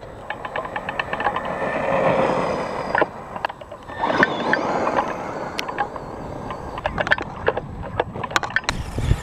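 Brushless Duratrax Evader RC monster truck driving over rough ground: a steady hiss of tyres and debris with frequent sharp clicks and knocks, and a faint motor whine that rises and falls with the throttle.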